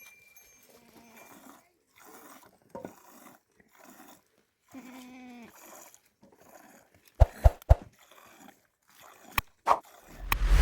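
Farm animals calling in short cries, one longer pitched call about halfway. Several sharp knocks come after that, and a heavy thud starts near the end.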